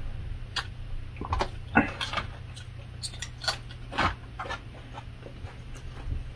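Close-miked mouth sounds of eating: irregular wet clicks and lip smacks of chewing, over a steady low hum.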